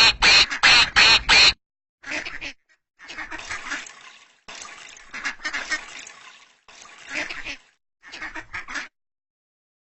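Duck quacking: a quick run of loud quacks in the first second and a half, then several quieter bouts of quacking that stop about nine seconds in.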